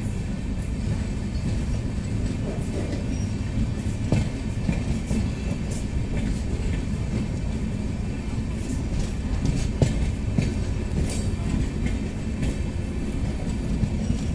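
Sapt Kranti Superfast Express train rolling slowly into the station: a steady low rumble of wheels on the rails with scattered clanks, loudest about four seconds in and again near ten seconds.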